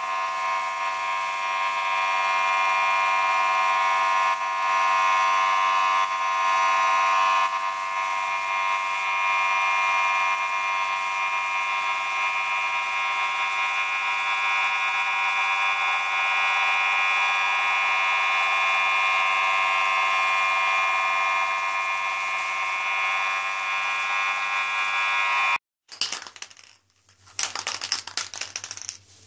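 A small electric power tool running at a steady speed with a constant buzzing tone, then cutting off suddenly about four seconds before the end; faint scattered handling sounds follow.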